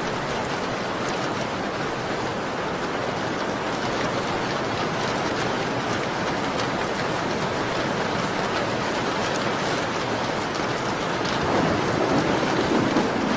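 Steady rain on a window pane, an even hiss with scattered faint ticks. Near the end a lower, louder swell rises in the rain.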